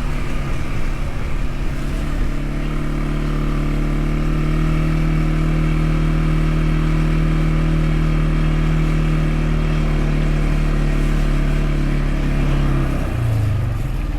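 An engine running at a steady speed, with a small change in pitch about two seconds in and a drop in pitch shortly before the end.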